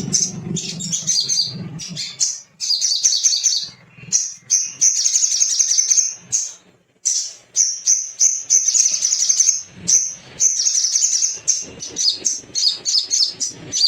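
Little spiderhunter (sogok ontong) calling, rapid high chip notes in repeated fast runs broken by short pauses.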